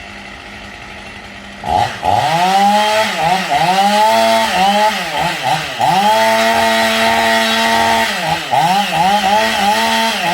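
Two-stroke chainsaw engine being revved hard, blipped up and down over and over, and held at full revs for a couple of seconds in the middle. A quieter steady hum comes before it starts, about two seconds in.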